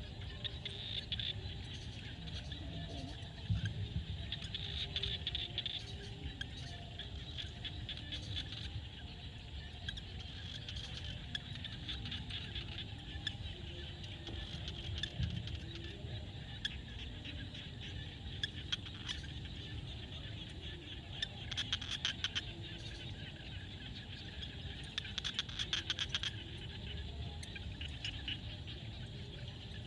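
Chorus of frogs calling: a dense, continuous rattle of rapid clicking calls that swells and fades in waves, over a low rumble.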